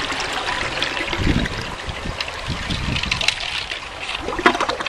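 Toilet refilling after a flush, with water trickling steadily into the bowl. There are a few dull knocks in the middle and a cluster of sharp clicks near the end.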